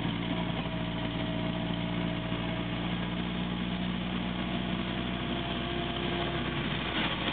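1934 Morris 10's four-cylinder engine running at a steady, even speed, heard from inside the moving car.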